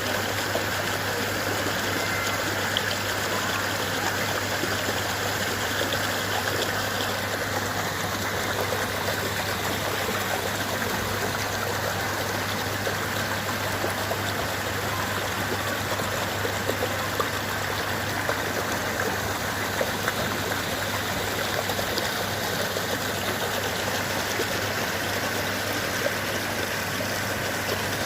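Water from an artificial waterfall splashing steadily into a koi pond.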